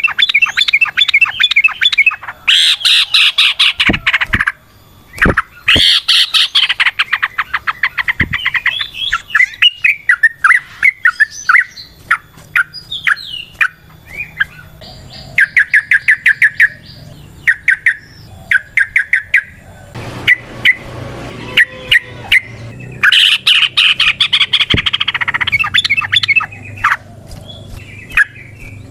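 Yellow-vented bulbul (trucukan) singing loud phrases of rapid chattering notes, several in a row, broken by short pauses.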